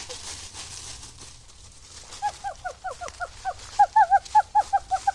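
A bird calling in a rapid series of short, hooked notes, about five a second, starting about two seconds in and growing louder.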